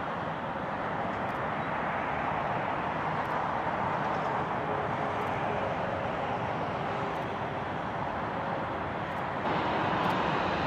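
Steady rushing noise of a jet airliner's engines, growing a little louder near the end.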